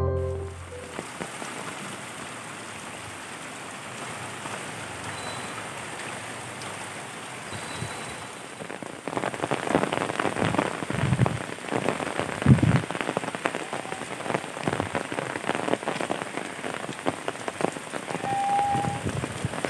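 Rain falling, a steady hiss at first that grows louder about nine seconds in, with many separate drops striking a surface.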